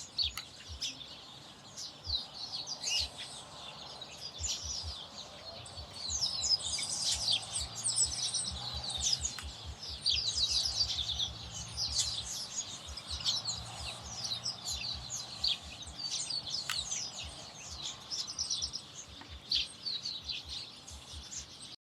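A large flock of small birds, mostly chestnut-capped blackbirds, calling and chattering all at once in a dense, overlapping mass of chirps and trills, busiest in the middle.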